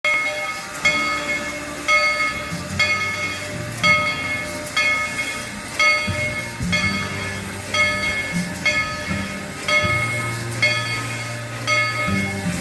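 Steam locomotive's bell ringing steadily, about one stroke a second, each stroke ringing on with the same set of tones, over lower steady sounds from the train.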